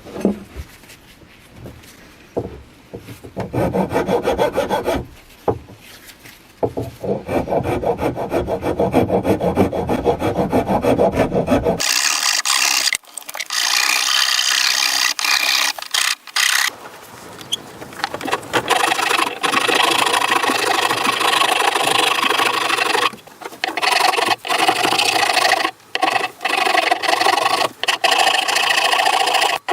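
Hand tools working wood, likely shaping the billhook's new wooden handle. It starts with repeated sawing or rasping strokes, then changes abruptly about a third of the way through to a brighter, higher scraping, as of a rasp or file, in stretches with short pauses.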